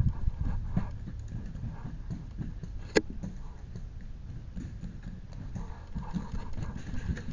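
Footsteps with the knocking and rustling of gear as an airsoft player moves, with one sharp click about three seconds in.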